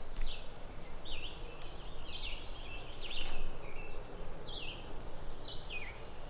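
A bird chirping over and over, short falling chirps about twice a second, over a steady low rumble of outdoor background noise.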